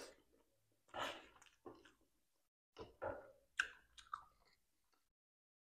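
A person chewing a mouthful of spicy instant noodles, close to a clip-on microphone: about six short, separate wet mouth sounds.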